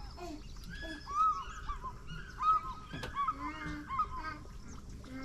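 A bird giving a run of short, harsh, goose-like honking calls, several in a row, the loudest about a second in and again about two and a half seconds in.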